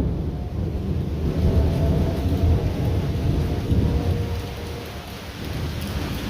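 Heavy rain with a low rumble of thunder that eases about five seconds in and then builds again.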